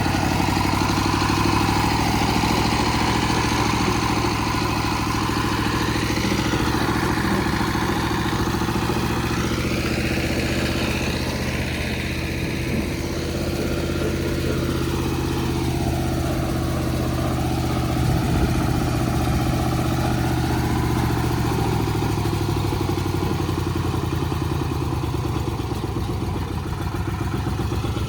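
Diesel engine of a mini cultivator running steadily at an even speed.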